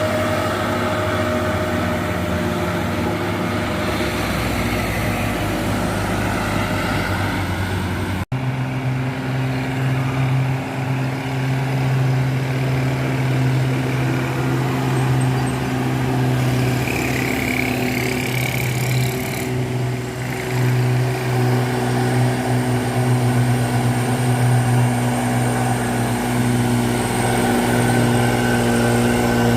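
Heavy truck engine pulling under load up a steep climb, a steady low drone. There is a sudden cut about eight seconds in, after which the drone is louder and lower.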